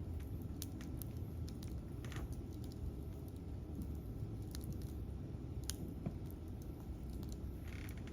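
Wood campfire crackling: scattered sharp pops and snaps over a steady low rumble, with a brief hiss near the end.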